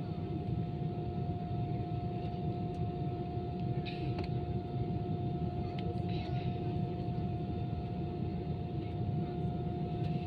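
Steady cabin noise inside an Airbus A320 on the ground: a constant low rumble with a steady whine, from the engines and air systems running at idle.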